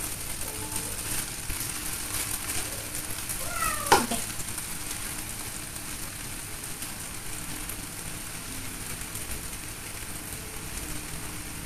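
Yellow noodles sizzling steadily in a hot frying pan as handfuls of mustard greens are tossed in on top. About four seconds in, there is one short falling vocal call.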